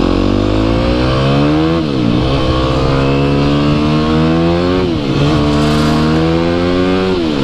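Dirt bike engine accelerating hard through the gears: the pitch climbs steadily, drops sharply at an upshift about two seconds in and again about five seconds in, then climbs again until the throttle eases near the end.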